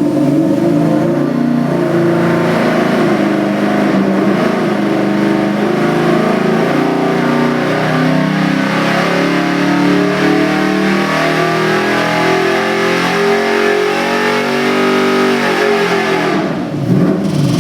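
Ford 351 Windsor V8 running hard on an engine dyno, held at high rpm in steps. About a second before the end the pitch falls and the sound drops off as the throttle closes.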